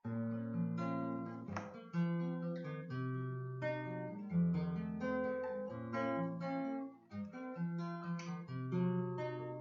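Acoustic guitar playing a strummed introduction, with chords changing about every second over bass notes.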